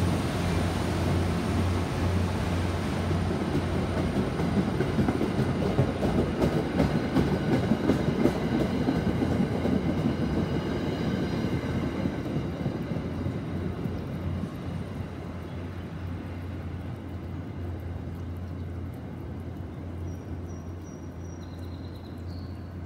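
MBTA commuter rail train rolling past and pulling away, its wheels clicking rapidly over the rails, with a steady low hum underneath. The noise fades steadily over the second half as the train recedes.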